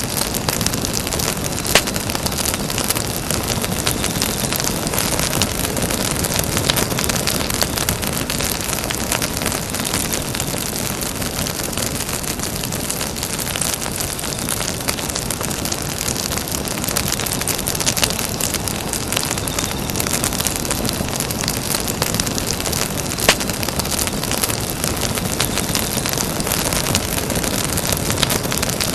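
Campfire burning with a steady hiss and dense crackling, with two louder pops, one about two seconds in and one about three-quarters of the way through.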